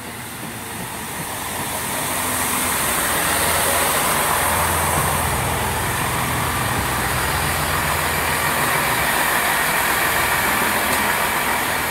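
Class 165 diesel multiple unit 165120 pulling into the platform, its diesel engines and rolling noise growing louder over the first few seconds and then holding steady, with a low engine hum under a high hiss.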